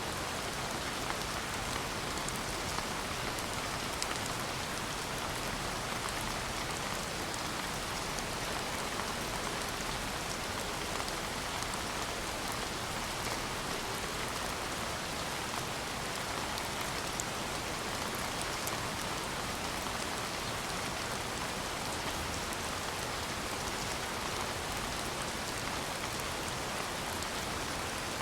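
Steady rain falling, an even hiss of rain on a surface with scattered small drop ticks.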